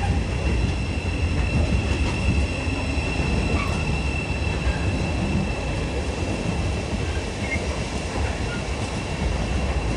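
Freight train hauled by a Class 66 diesel locomotive rolling past: a steady rumble of wagon wheels on the rails, with a thin, steady high wheel squeal over it.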